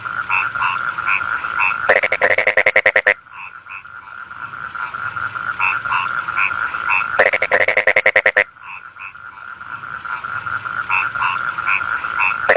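A chorus of rice-field frogs croaking: short spaced calls build in loudness and are broken about every five seconds by a loud rapid rattle of pulses lasting about a second, over a steady high trill.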